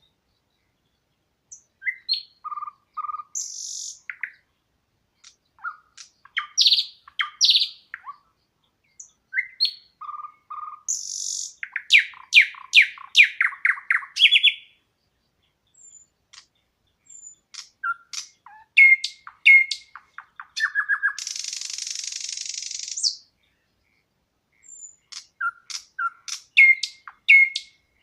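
Songbirds singing in short phrases of chirps and quick trills with brief silent gaps between them, and a harsh buzzy call of about two seconds past the middle.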